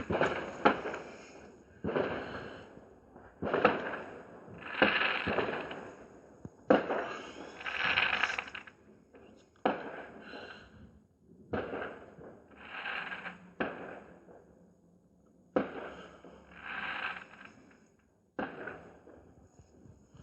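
Fireworks going off in quick succession: more than a dozen sharp bangs, each trailed by about a second of hiss.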